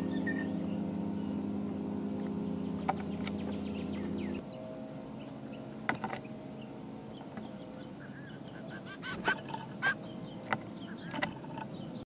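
Short, sharp bird calls, clustered near the end, over a steady low mechanical hum that cuts off suddenly about four seconds in.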